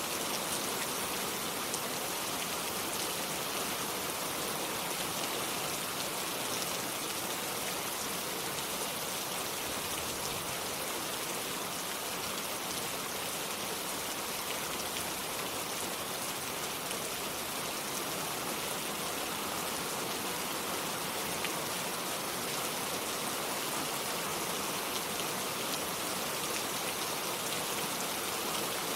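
Steady rain falling without thunder, an even hiss of drops with no breaks or changes.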